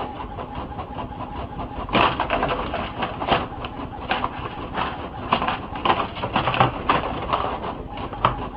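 Birds calling in a rapid series of short chirps.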